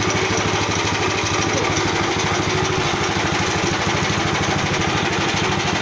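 Fish-feed pellet machine's engine running steadily, with a fast, even pulse.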